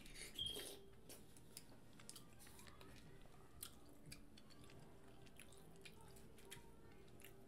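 Faint chewing and wet mouth clicks of a person eating a mussel close to the microphone, with a slightly louder bite about half a second in.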